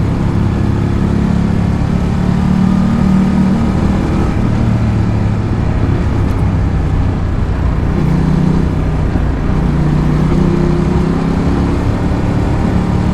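Ducati Multistrada 1200's L-twin engine running under way, its note rising and falling a few times as the throttle changes.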